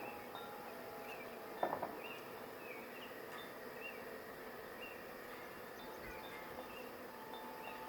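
Honey bee swarm buzzing steadily as it settles into a stack of hive boxes, with a brief louder burst of sound about one and a half seconds in.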